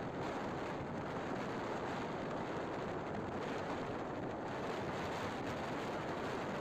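Steady rush of wind noise on the microphone with road and engine noise underneath, as from a motorcycle riding at speed.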